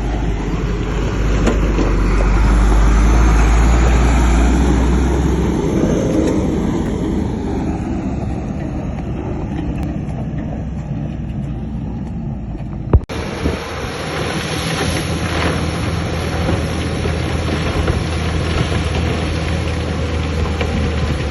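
Heavy diesel earthmoving machinery running steadily under load: a deep engine drone with clattering, grinding noise over it. The sound breaks off sharply about two-thirds of the way through and goes on again with a somewhat different mix.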